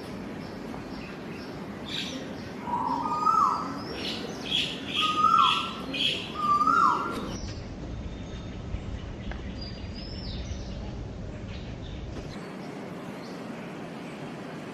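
Birds calling. One bird repeats a short whistled call that rises and then drops sharply, three times in the first seven seconds, over quicker, higher chirps. After that there is only a faint, steady outdoor background, with a single brief high call about ten seconds in.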